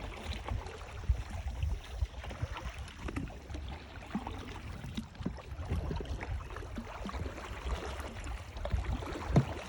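Water splashing and gurgling around a paddled canoe, over a steady low rumble, with a few short knocks; the loudest come about a second in and near the end.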